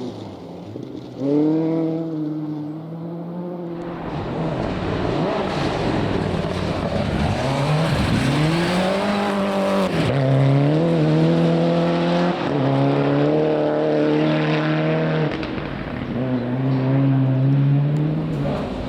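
Rally car engine on a forest stage, revving hard with its pitch climbing and dropping again and again through gear changes and lifts, over a steady rush of tyre and road noise as the car drives through the stage.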